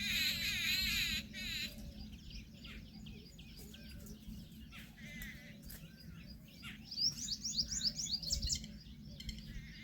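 Wild birds chirping and calling. A loud warbling trill cuts off suddenly under two seconds in, and a quick run of high, rising chirps comes about seven seconds in. A steady low hum runs underneath.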